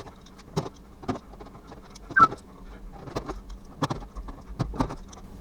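Irregular light knocks and clicks, about a dozen over a few seconds, from metal parts and tools being handled and set in place, with a brief high squeak about two seconds in.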